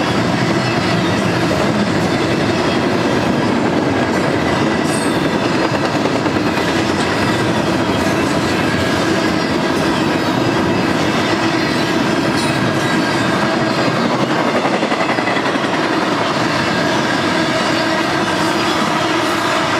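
Double-stack container cars of a freight train rolling past close by: a steady, loud noise of steel wheels on rail, with faint steady whining tones running through it.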